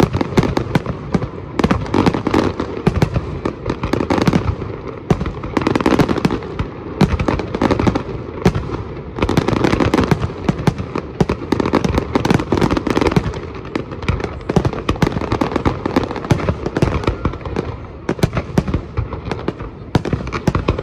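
Fireworks display: aerial shells bursting one after another, many sharp bangs and pops a second overlapping with no pause.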